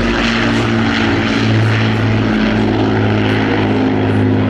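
Avro Lancaster bomber's four Rolls-Royce Merlin V12 piston engines running in flight, a loud, steady propeller drone with a few engine tones beating against each other.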